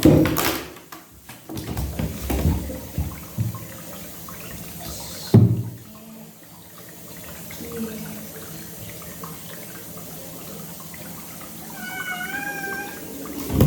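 Cat being bathed: splashing and knocks of water and handling in the first half, then one long wavering meow of protest near the end.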